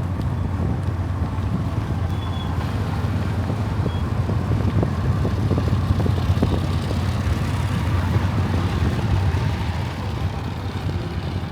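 Motor vehicle engine running steadily, a low rumble, with some wind noise.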